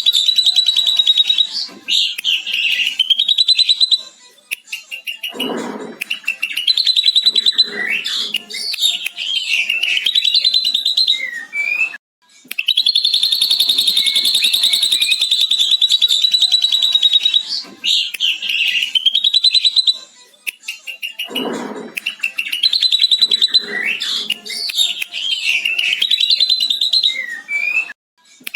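Ashy drongo singing a mimicked lovebird's long chattering trill: a fast, high chatter held for several seconds, then broken, varied notes and short rising whistles. The same phrase comes round again about twelve seconds later.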